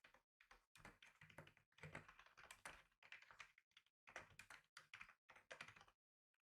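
Faint typing on a computer keyboard: quick runs of key clicks with short pauses between them, stopping near the end.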